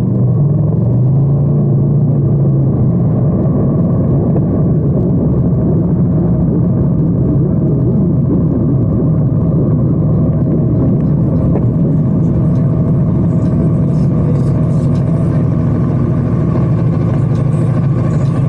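Motorcycle engine running steadily under way, a loud low drone that holds a near-constant pitch with slight wavering.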